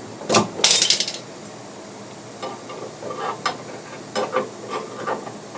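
Metal tools clanking against steel: a loud, quick clatter about half a second in, then a scattering of lighter knocks and taps.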